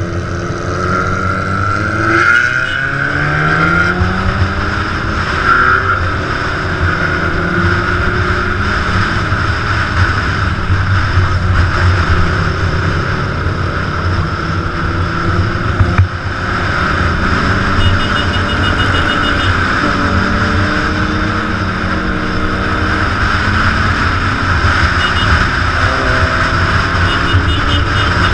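Big motorcycle engines running on the move, their pitch rising and falling as they speed up and ease off.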